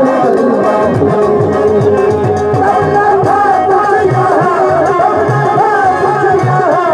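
Gilgit-Baltistan folk music: a voice singing a wavering melody over a steady beat of hand drums.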